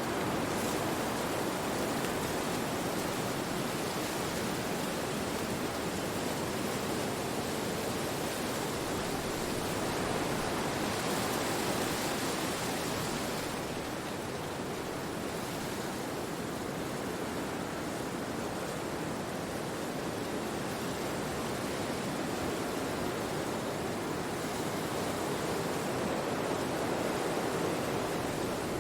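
Wind blowing through forest trees: a steady rushing through the leaves, swelling in gusts around the middle and again near the end.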